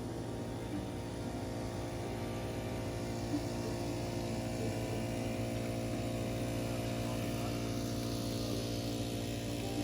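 Small engine running steadily at an even speed, with no change in pitch.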